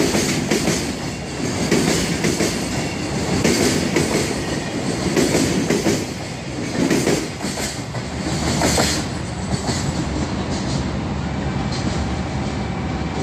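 Freight train wagons rolling past, their wheels clattering over the rail joints in regular surges about every one and a half to two seconds over a steady rumble.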